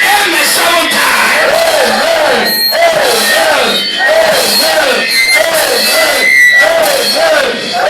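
A church congregation shouting in rhythm, about two shouts a second, over music.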